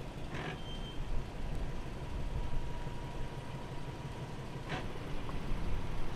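SUV engine running low and steady as it backs a boat trailer down a launch ramp, an uneven low rumble. A faint steady high tone runs under most of it, with a couple of light clicks.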